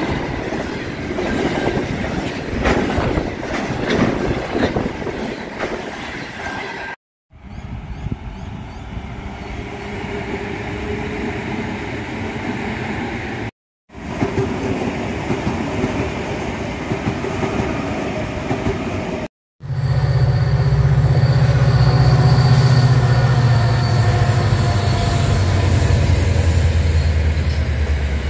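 Spliced clips of trains passing. First a container freight train rolls by with its wheels clattering over the rails. After cuts, an Adelaide Metro electric multiple unit runs past, and the last clip holds a loud, low, steady drone from a train.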